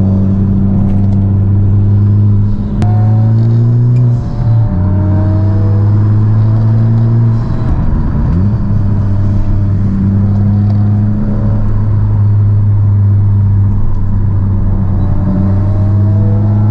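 Honda Civic Type R's turbocharged four-cylinder engine, heard from inside the cabin, pulling steadily on a winding road. The engine note drops briefly twice, about four and eight seconds in, as gears are changed.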